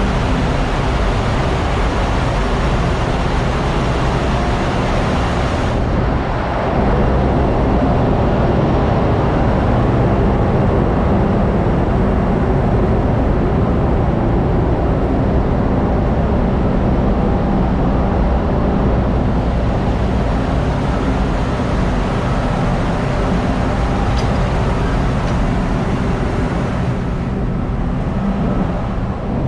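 Tanker ship's engine-room machinery running: loud, steady mechanical noise with a low hum, getting a little louder about six seconds in.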